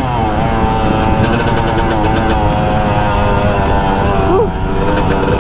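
Dirt bike engine running along a trail, its pitch falling as the throttle eases off at the start, then holding fairly steady with a brief dip about four seconds in, over wind rumble on the microphone.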